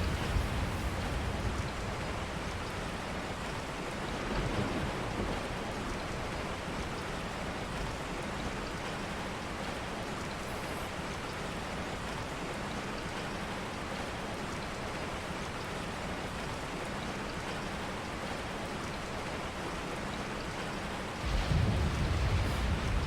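Steady rain falling, with low thunder rumbles swelling right at the start, briefly a few seconds in, and again near the end.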